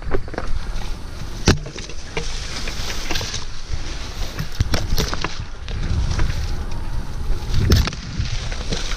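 Mountain bike ridden over rough trail, heard through a bike-mounted action camera: wind rumbling on the microphone, with sharp knocks and rattles from the bike, the loudest about a second and a half in, around five seconds in and near the end.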